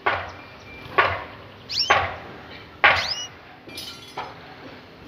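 Birds giving short, high calls that sweep quickly downward, three times, over a run of sharp knocks about once a second.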